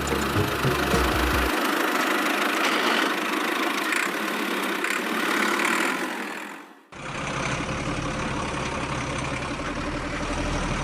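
A small motor running steadily, in two stretches split by a sudden cut about seven seconds in.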